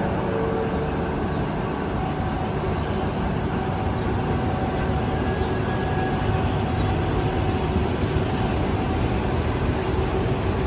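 A diesel train running, a steady low rumble.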